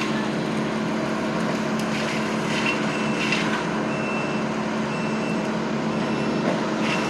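Kubota construction machine's diesel engine running steadily while it works, with faint short high beeps about once a second.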